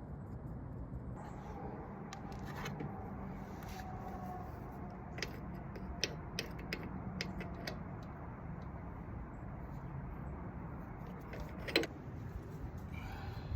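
Scattered light metallic clicks and ticks from an Allen wrench being fitted to and turning the drain bolt on a pressure washer pump's crankcase. One sharper click comes near the end, over a steady low rumble.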